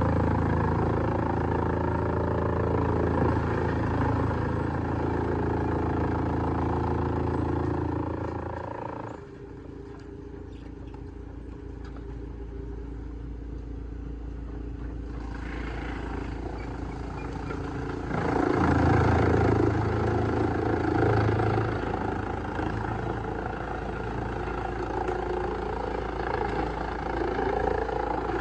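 Heavy-duty wood shredder running loudly with a deep engine drone; about nine seconds in the low engine note drops away and the sound eases off, then it comes back up strongly about halfway through.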